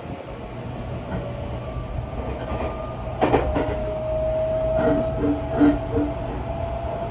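Inside a Seibu 40000 series electric train car running: a steady low rumble of wheels on the track, with a thin motor whine rising slightly in pitch. Wheels knock over rail joints a few times, the loudest about three seconds in.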